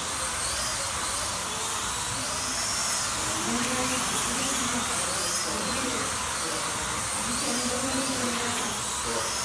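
Slot cars' small electric motors whining as they race round the track, the pitch rising and falling again and again as the cars speed up and slow for corners.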